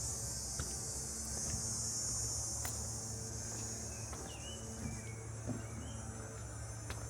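Steady, high-pitched insect chorus buzzing in summer woodland. A few short bird chirps come about four seconds in, over a low steady hum.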